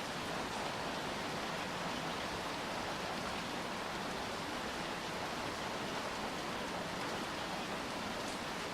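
Steady rain falling, an even hiss with faint drops ticking now and then.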